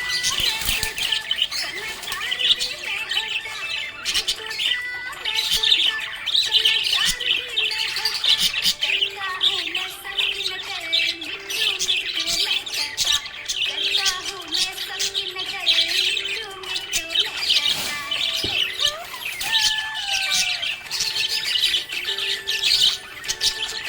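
Budgerigars chirping and warbling continuously: a dense run of quick chirps with occasional squawks.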